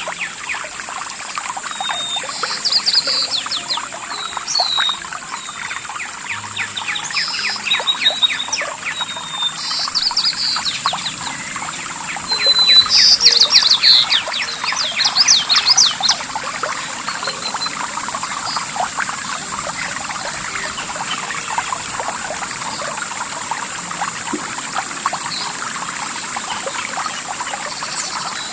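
Small stream or brook babbling and trickling steadily, with a songbird singing repeated bright phrases during the first half that fall quiet after that. A steady thin high-pitched tone runs behind them.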